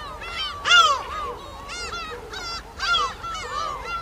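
Birds calling: many short, arched squawks overlapping one another, several a second, with louder ones about a second in and near three seconds.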